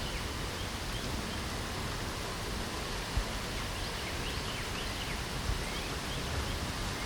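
Steady hiss of light spring rain, with short faint bird chirps scattered through it.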